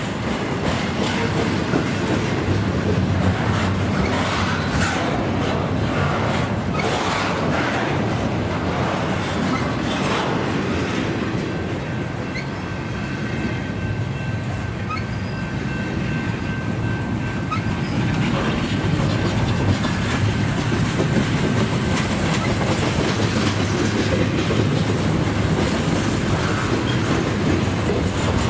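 Double-stack intermodal freight train's well cars rolling past close by: a steady rumble of steel wheels on rail with clickety-clack over the rail joints.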